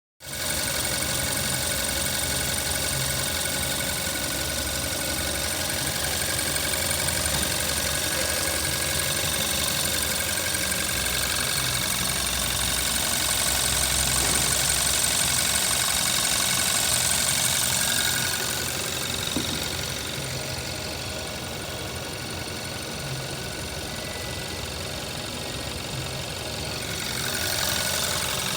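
Hyundai ix35 2.0-litre engine, 158,537 km on it, running steadily at idle. It gets a little quieter about two-thirds through and comes back up near the end.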